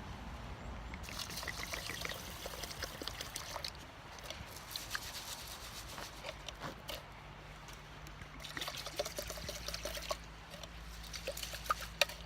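Water being poured and trickling in several short spells of about two seconds, with light clicks and rustles between them.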